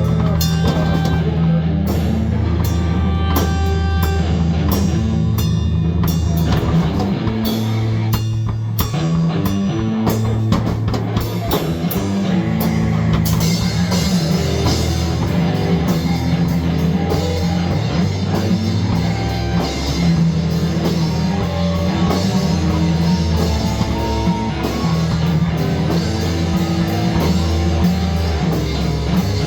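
Rock music with drum kit and guitar, played loud.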